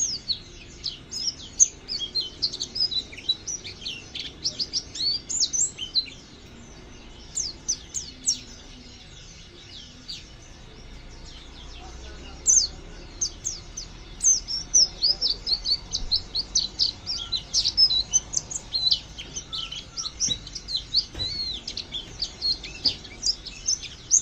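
A pleci (white-eye) bird twittering in rapid, short, high chirps, with a lull of several seconds in the middle before the chatter picks up again. It is the scratchy 'ngriwik' twitter of a bird that has not yet settled into its full ringing song.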